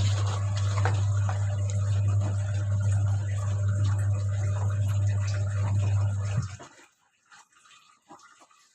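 Whirlpool White Magic Classic washing machine giving a steady low electrical hum, the drum not turning, in a machine with a no-wash, no-spin fault. The hum cuts off suddenly about six and a half seconds in.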